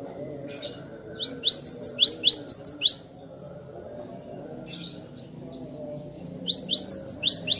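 Cinereous tit (glatik batu) singing: two quick runs of about eight sharp, rising whistled notes each, the first a second or so in and the second near the end.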